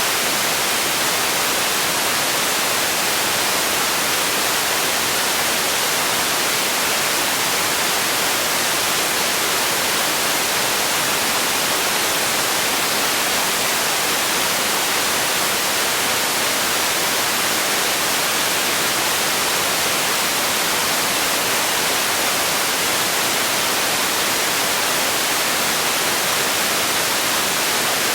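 Steady, unchanging white-noise hiss, with little bass, for relaxation and sleep.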